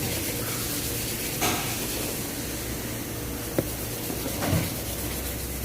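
Parts being handled on a car's in-tank fuel pump assembly: a knock, a sharp click and a softer knock over a steady low hum.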